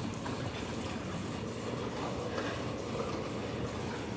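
Commercial garage door opener running as a CHI overhead door travels open, a steady mechanical rumble.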